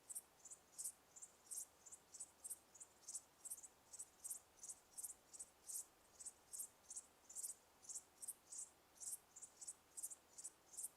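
Insects chirping: short, high chirps repeating steadily at about four a second, over a faint background hiss.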